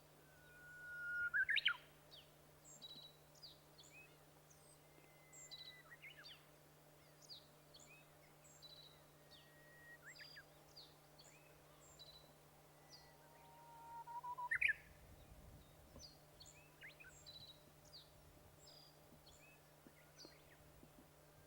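Japanese bush warbler singing twice, each song a long held whistle that swells into a quick rising flourish, once about a second and a half in and again near fourteen seconds. Many short, faint high chirps from other birds fall between the songs, over a faint steady low hum.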